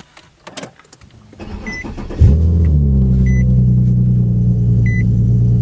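Infiniti G37's 3.7-litre V6 starting: after a few clicks, the engine catches about two seconds in with a loud flare and settles into a steady idle. A dashboard warning chime beeps three times, evenly spaced.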